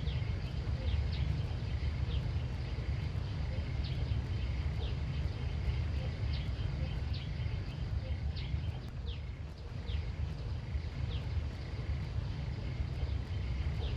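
Countryside ambience: a low rumble underneath, a steady faint high drone, and short falling chirps repeating about once a second.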